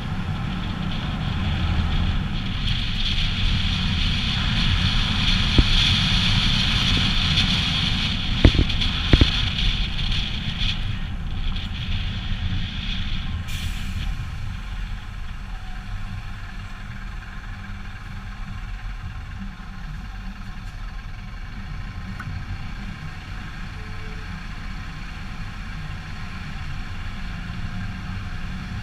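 Heavy truck diesel engine running with a steady low rumble. A hiss rises from about two seconds in and cuts off sharply about halfway through, with a couple of knocks shortly before that.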